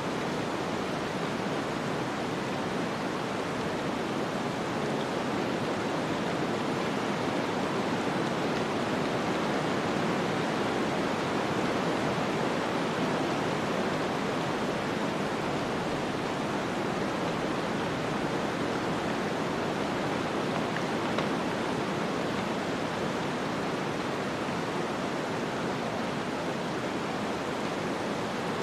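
Snowstorm wind ambience: a steady rushing hiss that swells slightly in the middle and eases again.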